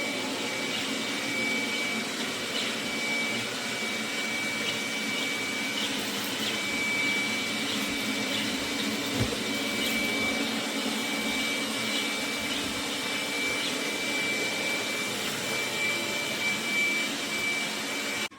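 roborock Q7 MAX+ suction motor running steadily, a rushing whoosh with a thin high whine over it. It cuts in and cuts off abruptly.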